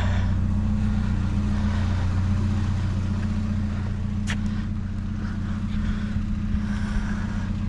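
Small truck's engine idling steadily, with a single sharp click about four seconds in.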